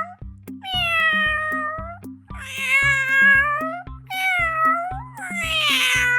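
Domestic cat meowing, about four long drawn-out meows in a row, over background music with a steady beat.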